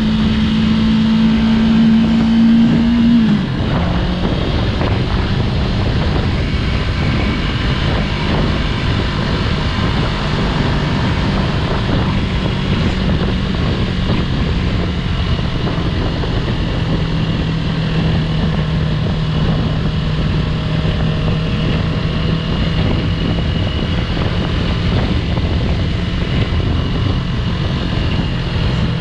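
Yamaha YZF-R3's parallel-twin engine running under way. Its note drops sharply about three seconds in, as when the throttle closes or a gear changes, then holds steady, over an even rush of wind and road noise.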